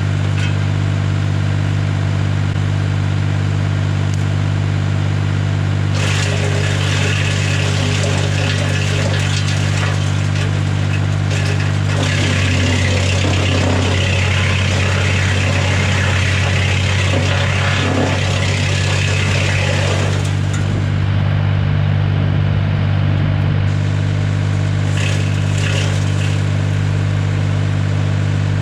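A tractor running the BX-52 PTO-driven wood chipper: a steady, loud machine hum, with a stretch of harsher, noisier chipping sound between about six and twenty seconds in as dead branches are fed through.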